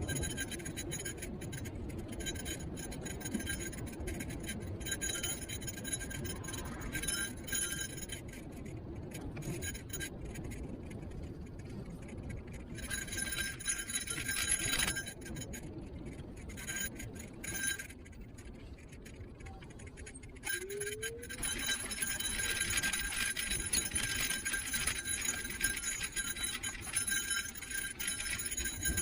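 Niu KQi3 Pro electric scooter being ridden: a continuous jingling, clinking rattle over the road surface with a steady high-pitched whine, easing off for stretches midway before picking up again.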